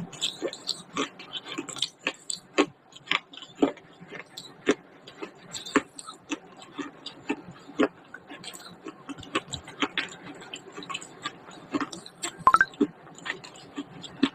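Baked clay being bitten and chewed: irregular sharp crunches and cracks, about one or two a second, with a louder cluster near the end.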